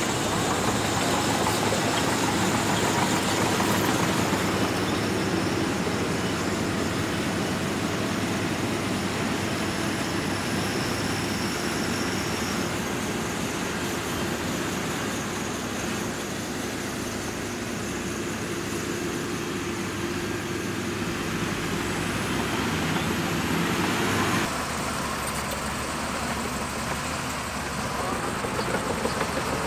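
Bulldozer's heavy diesel engine running steadily while working, with a few held engine tones; the sound changes abruptly about 24 seconds in.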